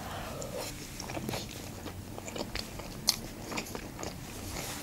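Close-miked chewing of a mouthful of canned stewed meat, with many small wet mouth clicks and one louder click about three seconds in.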